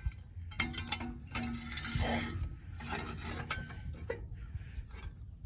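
Metal exhaust tips with clamps scraping and clinking as they are worked onto a truck's tailpipes, with irregular rubbing and small knocks throughout.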